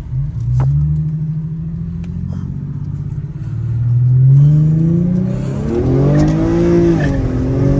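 Infiniti G37's 3.7 L VQ V6 accelerating hard through a muffler-deleted exhaust: the engine note climbs in pitch, drops back and climbs again in the second half, ending on a rising note.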